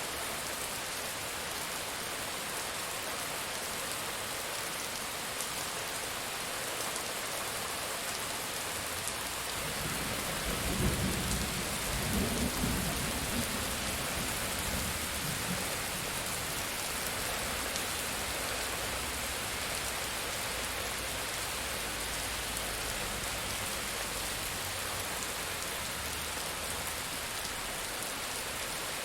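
Steady rain falling, an even hiss. About ten seconds in, a low roll of thunder rumbles for a few seconds, then dies away under the rain.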